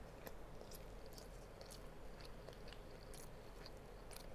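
A person chewing a mouthful of rice and chicken with the mouth closed: faint, irregular soft clicks and smacks, several a second.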